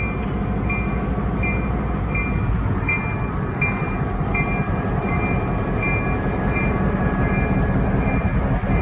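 Chesapeake and Delaware freight train running slowly, a steady low rumble, with a bell ringing in even strokes about one and a half times a second over it.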